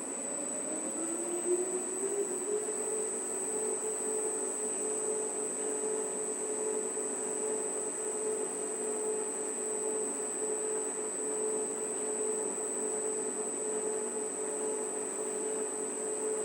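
A 39 kg laundromat washing machine running, its drum motor whining up in pitch over the first couple of seconds and then holding a steady hum, with a steady high-pitched whine over it.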